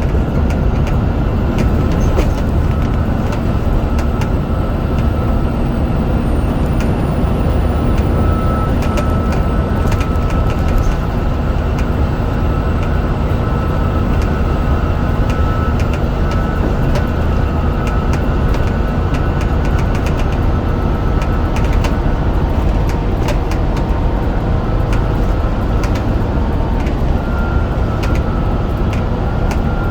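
Scania DC9 9.0-litre diesel engine of a Scania N94UD double-decker bus running steadily while the bus is under way, with a thin, slightly wavering whine above the engine note and occasional clicks and rattles.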